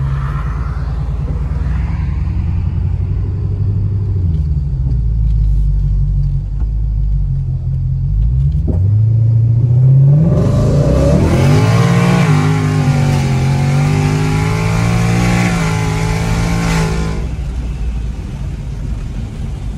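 Twin-turbocharged Coyote 5.0 V8 of a 2019 Ford Mustang, heard from inside the cabin. It runs at low revs while cruising, then pulls hard from about eight seconds in: the pitch climbs and the sound turns full and harsh for about seven seconds before easing back.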